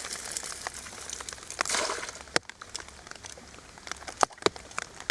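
Rain pattering close to the microphone, a dense run of drop ticks over a hiss that thins out after about two seconds, with a short rustle just before that and a few sharp single drop clicks near the end.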